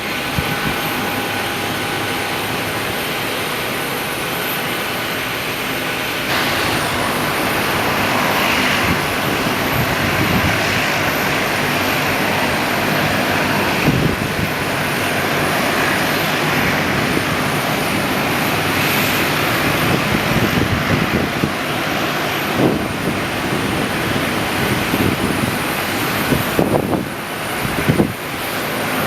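Airliner engines running at the airport, a steady rushing noise. A faint thin whine in the first few seconds then stops.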